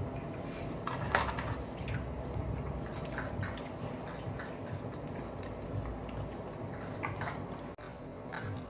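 People eating a fried-chicken meal: chewing, with scattered light clicks and taps of utensils and dishes.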